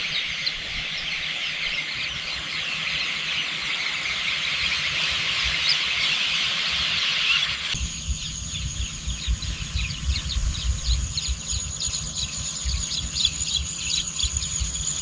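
Dense, high-pitched chorus of insects such as cicadas and crickets in a field. About eight seconds in it changes abruptly to a steady high trill with rapid repeated chirps over it.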